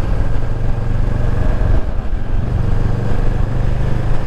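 Motorcycle engine running steadily under way, with road and rushing noise over it; the engine note briefly eases about two seconds in.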